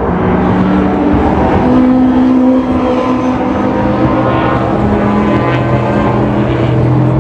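Historic racing car engines running hard at the track, the engine note climbing in pitch and then dropping sharply about two and a half seconds in, as on a lift or gear change, with more engine notes overlapping after it.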